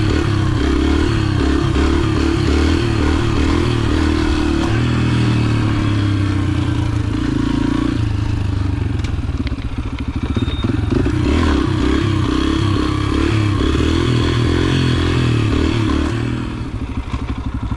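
Yamaha TT-R125 pit bike's single-cylinder four-stroke engine running under way, its pitch stepping up and down with the throttle and gears. It eases off near the end.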